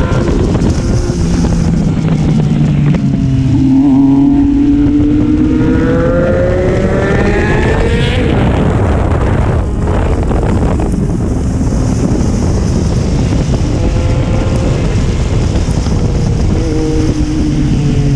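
Triumph Street Triple's inline-three engine running under throttle, its pitch climbing for several seconds as it accelerates, then a brief drop about ten seconds in before it settles to steadier running. Wind rushes over the microphone throughout.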